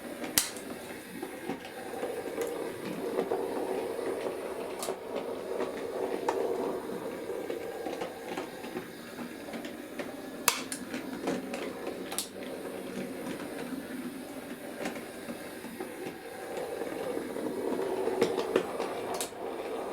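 A Bachmann Class 03 OO gauge model diesel shunter running through sidings: a steady small-motor whirr with a few sharp clicks as the wheels cross rail joints and insulfrog points. It runs through without stalling.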